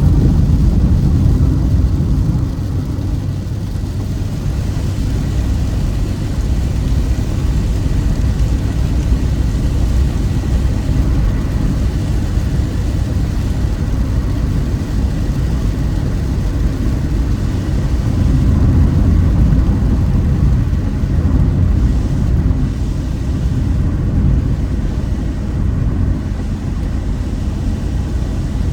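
Car driving on a highway: steady low rumble of road and engine noise.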